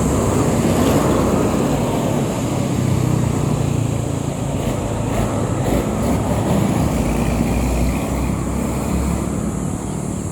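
Engine running steadily while on the move in road traffic, with wind noise on the microphone.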